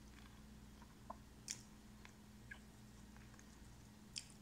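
Quiet chewing of a mouthful of breaded chicken strip: a few short, sharp wet mouth clicks scattered through, over a faint steady low hum.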